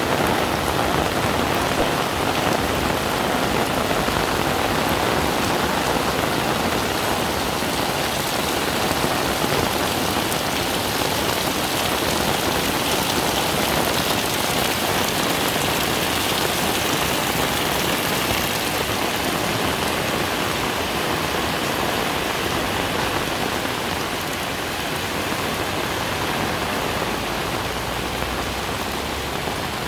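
Heavy rain pouring down steadily, a dense, even hiss of countless drops.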